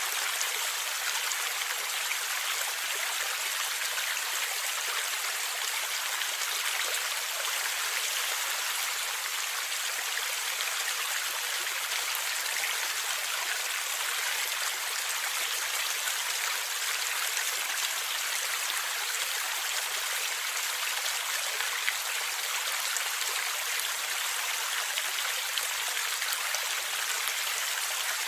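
A stream of water flowing and gurgling steadily, an even rushing hiss with no low rumble and no single splash standing out.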